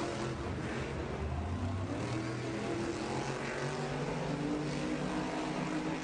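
Monster truck supercharged V8 engines running, with the pitch rising a little around the middle as the throttle comes up.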